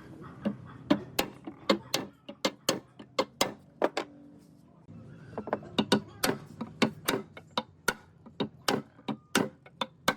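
Irregular sharp taps and clicks, about two or three a second, of hand tools working on metal parts, with a short lull partway through.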